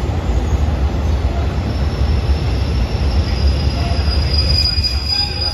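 Long-distance passenger train rolling slowly into the platform, heard from on board: a steady low rumble, with a high steady squeal that sets in about two seconds in and grows louder as the train slows to a stop.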